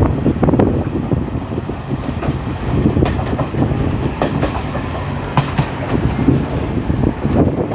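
Passenger train running along the track, heard from on board: a steady low rumble with irregular sharp clicks and clatters of the wheels over rail joints.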